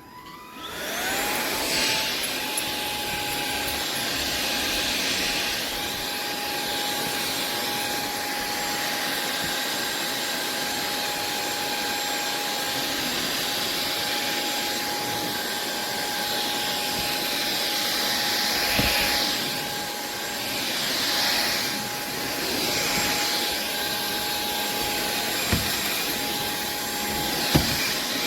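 SunSare X7A cordless stick vacuum switching on, its motor winding up within the first second to a steady whine over a rush of air, then running as it is pushed over dog hair on a wooden floor. A few light knocks near the end.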